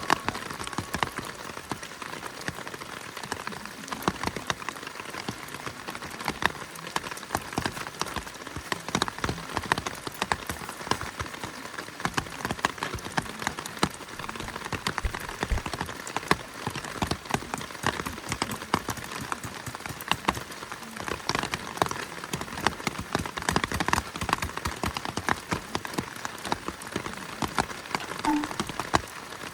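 Heavy rain falling, a dense, uneven stream of drops striking a surface close by.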